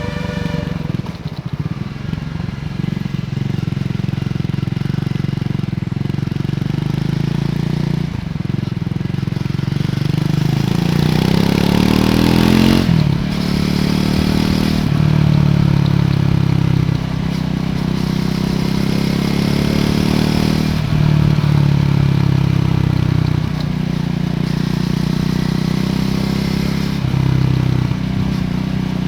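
Triumph Scrambler 400 X's single-cylinder engine through its stock exhaust while being ridden. The engine note climbs steadily to a peak about thirteen seconds in, falls sharply, then runs on with several shorter rises and drops in pitch.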